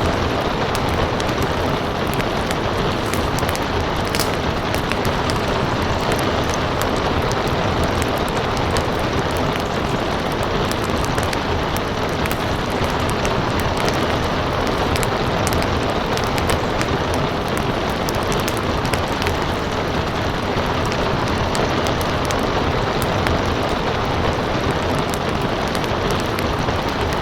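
Wood fire crackling with scattered sharp pops, over a steady wash of rain. The noise holds even throughout, with no thunder or distinct larger events.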